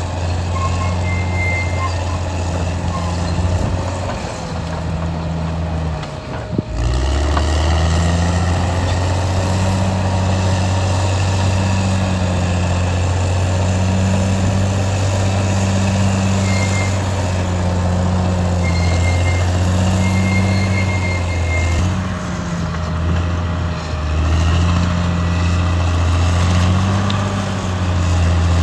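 Caterpillar D6R XL bulldozer's diesel engine running steadily under working load, its note rising and falling as the machine pushes. The engine drops briefly and picks up again about six seconds in.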